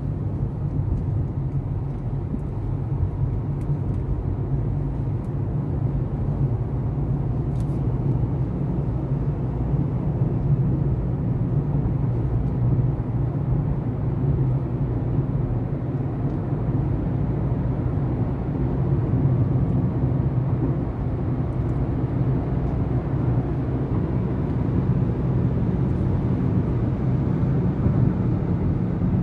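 Steady rumble of a motor vehicle on the move, engine and road noise.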